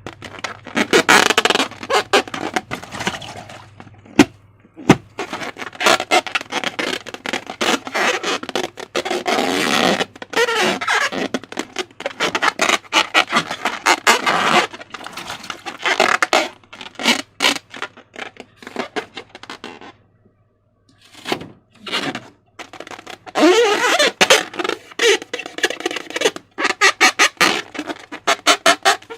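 Slime being squished and stretched by hand: dense, irregular wet clicks and crackles, with short rubbery squeaks that slide in pitch. It pauses briefly twice.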